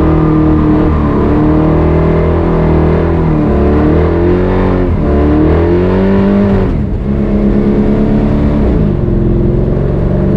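Chevy C10 pickup truck's engine running while driving, its pitch climbing and then dropping several times as the revs change.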